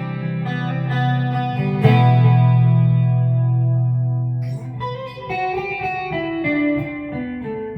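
Electric guitar (PRS SE Hollowbody II with humbuckers) played through a Peavey Vypyr X2 modeling amp with its chorus effect on. A chord rings, a second chord is struck about two seconds in and left to ring, then single notes are picked over the second half.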